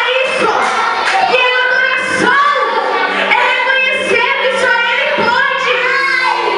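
A woman singing a hymn in a high, wavering voice over held instrumental notes.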